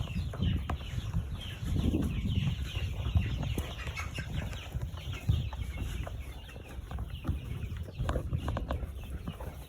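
A group of three-week-old chicks peeping, many short high cheeps overlapping continuously, over a low rumble.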